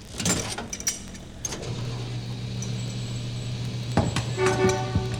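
A rattle of clicks, then a motor starts and runs with a steady low hum. A knock sounds about four seconds in, followed by a held, horn-like pitched tone.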